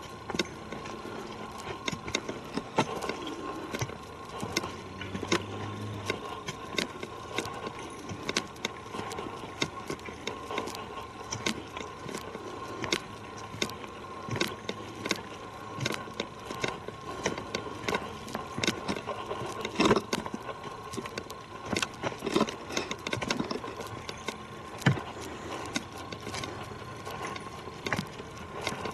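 Footsteps crunching and snapping on a forest trail, an irregular run of short clicks and crackles, with small rattles of carried gear.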